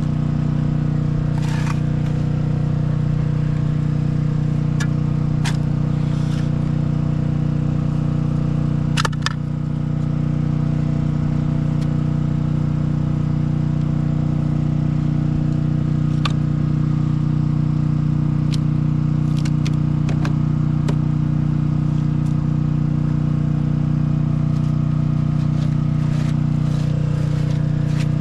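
An engine running steadily at constant speed, with a few short sharp clicks and clanks over it.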